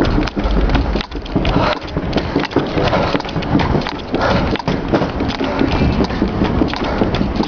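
Running footsteps of beach shoes slapping a hard floor in a quick, uneven patter, mixed with knocks and rubbing from a handheld camera.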